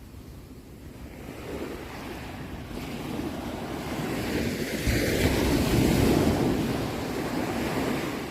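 Sea waves: a wave rushes in, building from about a second in to its loudest around five to six seconds, then eases off near the end.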